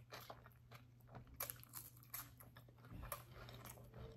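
Faint, close-miked chewing of a saucy vegan pulled pork sandwich on a soft bun: small wet mouth clicks and smacks at an irregular pace.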